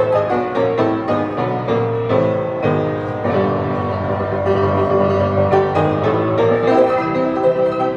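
Piano music: a steady run of struck notes and chords.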